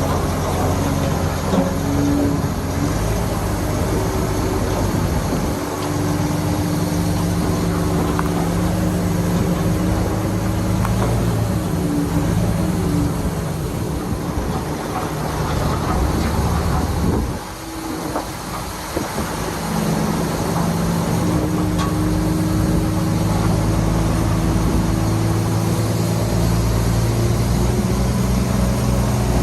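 Heavy diesel earthmoving machinery running steadily under load. The engine note drops away briefly a little past the middle, then picks back up.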